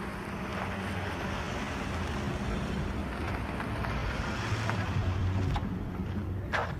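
A motor vehicle passing close by: engine hum and tyre noise growing louder to a peak about five seconds in, then easing off, with a couple of short sharp clicks near the end.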